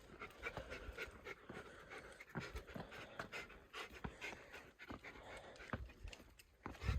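Hard, fast panting breaths with irregular footfalls, as when climbing stairs at the end of a long, steep hike.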